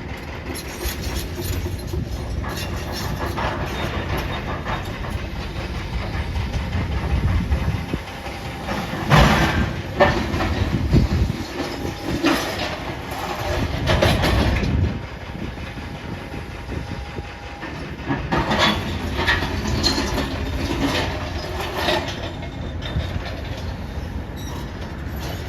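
Demolition machinery at work: a steady diesel rumble under repeated metal clanks and scraping crashes of debris, loudest in a cluster about nine to fifteen seconds in and again about eighteen to twenty-two seconds in.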